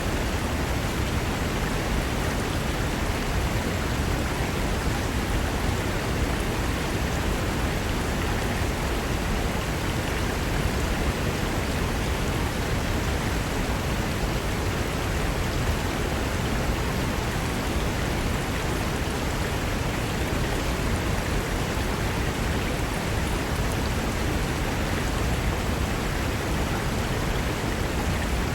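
Fast mountain river rushing over rocks: a steady, full rush of water.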